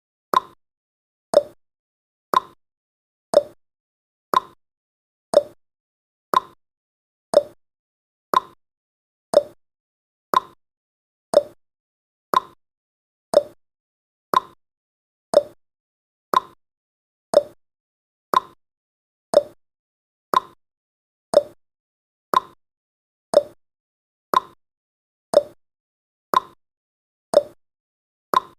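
Ticking-clock sound effect of a countdown timer: one sharp tick each second, evenly spaced, marking the seconds as they count down.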